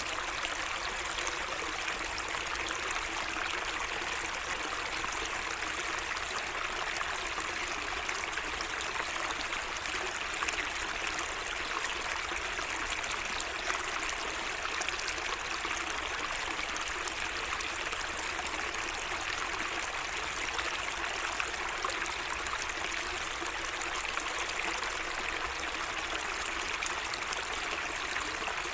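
Water running steadily in a small garden waterway, an even trickling flow.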